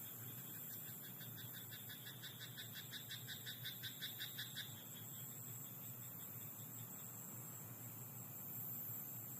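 A frog croaking in a rice paddy: a rapid run of croaks, about six a second, growing louder for some four seconds and then stopping about halfway through. A steady high hiss lies underneath.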